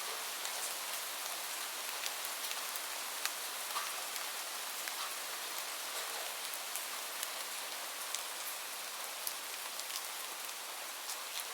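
Steady rain falling, an even hiss with many individual drops heard as faint ticks.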